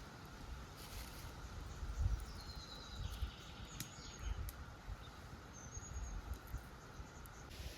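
Outdoor ambience: a few short high bird chirps over an irregular low rumble that swells about two seconds in, with a faint steady hiss and a few light clicks.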